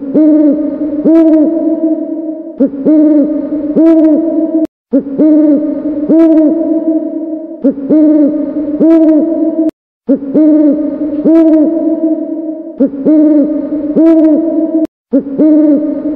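Owl hooting: the same short run of hoots repeats about every two and a half seconds, seven times over, with brief breaks between.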